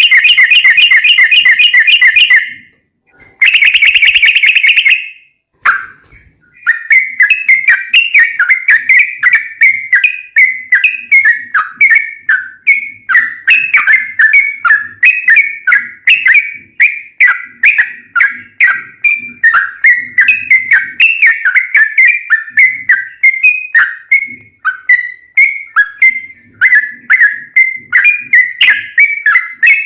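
Yellow-vented bulbul (trucukan) singing its long rapid-fire song: two short fast buzzy trills in the first five seconds, then after a brief pause a long unbroken run of quick chattering notes.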